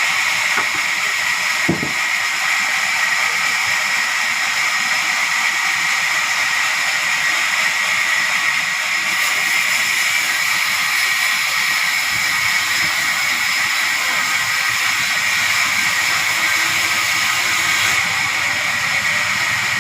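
Sawmill saw cutting timber: a steady, high-pitched whine over a hiss.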